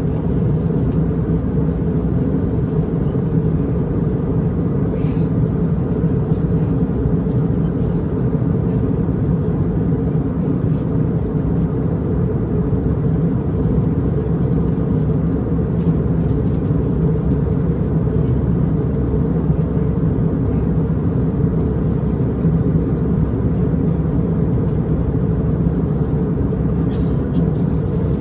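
Steady low cabin noise of an Airbus A320 airliner in flight: engine and airflow sound heard from a passenger seat, even and unbroken, mostly low in pitch.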